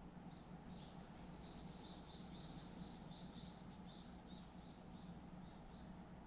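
Faint songbird call: a rapid run of short, high chirps, about four a second, stopping about five seconds in, over a steady low background hum.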